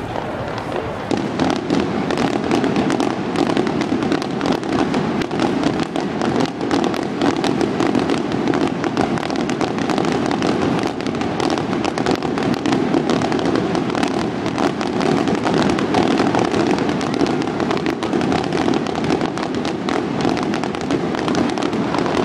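Fireworks finale barrage: many aerial shell bursts go off in quick succession, their bangs and crackles overlapping into a continuous din that grows louder about a second in.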